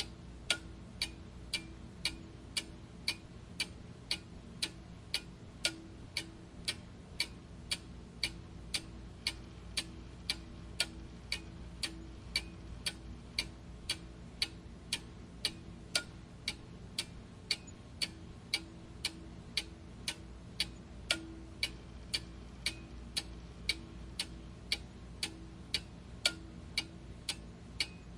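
Clock ticking steadily with even, sharp ticks, a little under two a second, over a faint low steady hum.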